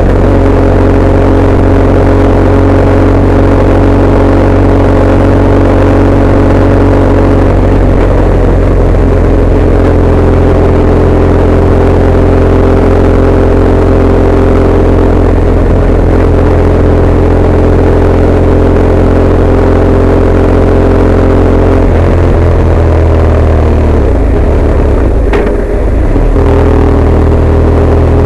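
Motorcycle engine running at a steady speed while riding, picked up loud on the bike-mounted camera's microphone. Near the end the engine note shifts and dips briefly, then settles back to a steady run.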